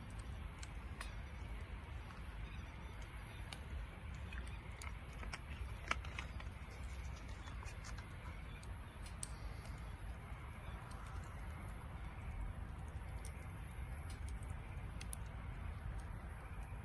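Wood fire crackling in a Snow Peak steel fire pit: scattered small pops and snaps over a steady low rumble, with the sharpest pop about six seconds in.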